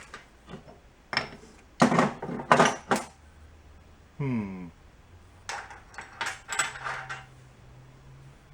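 Small metal engine parts clinking and rattling as they are handled and rummaged through, in two bursts of clatter. Between them comes a short falling squeak.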